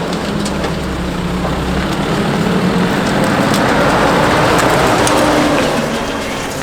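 Nissan Navara NP300 ute driving slowly along an overgrown track, with branches and scrub brushing and scraping along its bodywork over the engine hum. The scraping swells to its loudest past the middle.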